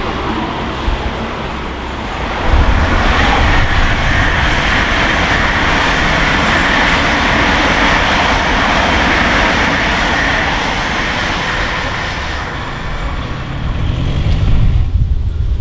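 A train passing at speed: a steady rush of wheels on rails that swells about two and a half seconds in, holds for about ten seconds, then falls away, with a low rumble building near the end.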